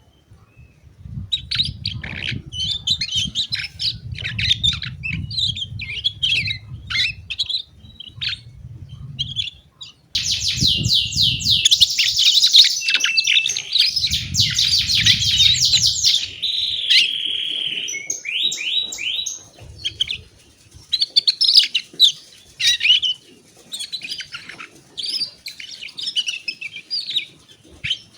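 Canary singing a varied song of chirps and whistles. About ten seconds in it breaks into a long, fast, even trill lasting about six seconds, then a short held buzzy note, before the chirping resumes.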